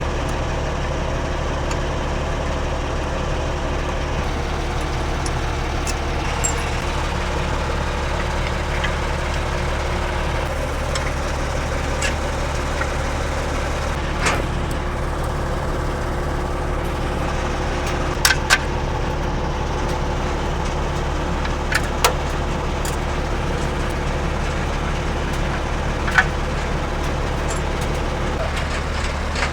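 Engine running steadily at idle, with a few sharp clicks and knocks, two of them close together a little past the middle.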